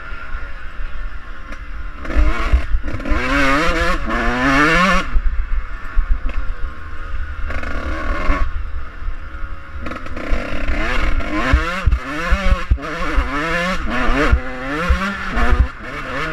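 Suzuki RM 125 two-stroke dirt bike engine revving hard: its pitch climbs, drops back and climbs again in quick succession as the rider works the throttle and gears, easing off for a few seconds midway. A low rumble with knocks runs underneath.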